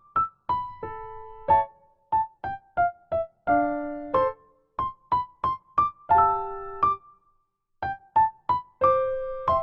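Background music: a keyboard, sounding like an electric piano, playing a simple tune of short single notes and held chords, with brief gaps between phrases.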